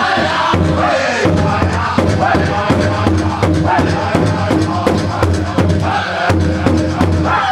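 Northern-style powwow drum group singing a chorus in high, bending voices over a steady beat struck together on a large powwow drum.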